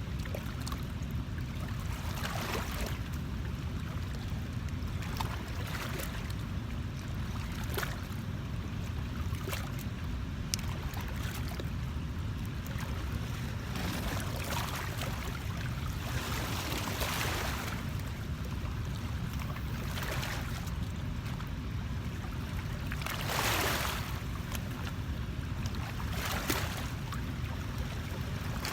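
River water ambience: a steady low rumble with irregular short washes of water noise every couple of seconds, the loudest about two-thirds of the way through.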